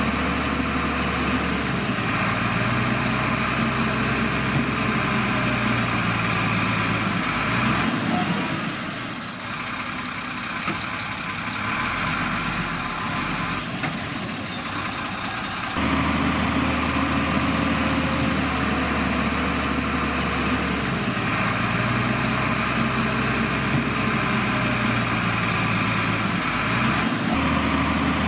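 Diesel engine of a Shantui bulldozer running steadily while working dirt. It drops quieter for several seconds about a third of the way in, then comes back to full strength around the middle.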